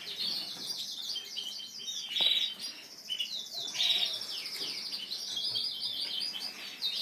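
Many caged canaries singing at once: rapid trills and chirps that overlap without a break.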